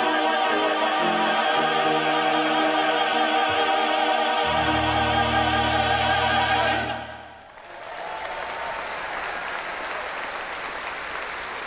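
Choir and orchestra holding the closing chord of a sacred piece, the voices singing with vibrato over a bass that shifts about halfway, until the music stops about seven seconds in. An audience then applauds steadily.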